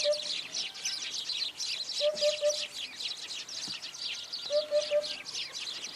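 Eurasian hoopoe calling its 'oop-oop-oop': groups of three short, low notes about every two and a half seconds. Other small birds keep up a fast, high chirping throughout.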